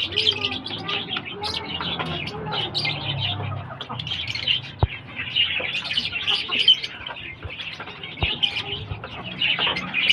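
Pet lovebirds chirping and chattering continuously in high, rapid calls, with a few sharp knocks among them.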